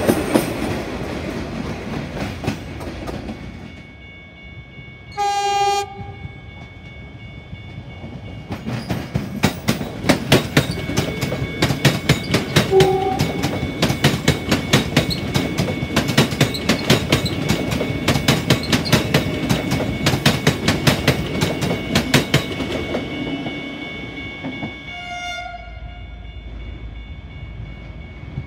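A passenger train rumbling past and fading, then a single train horn blast about five seconds in. An electric suburban train runs past with a rapid clickety-clack of wheels over rail joints through the middle. A second horn blast sounds near the end as a V/Line VLocity diesel railcar approaches.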